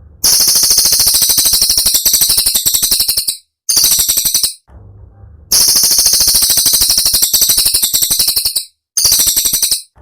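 Cililin singing: a loud, high, rapid-fire trill of sharp notes, the piercing 'tembakan' phrase used to train songbirds. It comes in four bursts, two long and two short, with brief breaks between, and the same phrase repeats about halfway through.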